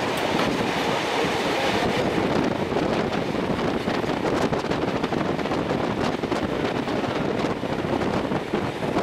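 Steady running noise of a steam-hauled passenger train, heard from an open carriage window, with wind buffeting the microphone.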